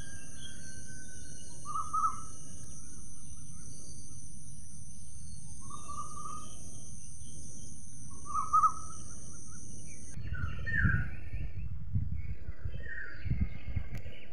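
Small birds chirping outdoors: short clusters of chirps every two to three seconds over a steady high hiss and low background noise. About ten seconds in the hiss stops, and the chirps come higher, over a stronger low rumbling noise.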